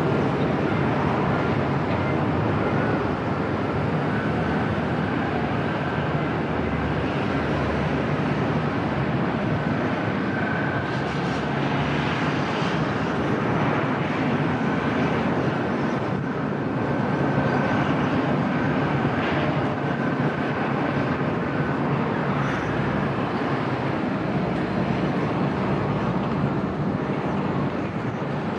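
Jet airliner engine noise from a Boeing 737 MAX 8, a steady, even sound with no clear rise or fall, mixed with gusty low wind rumble.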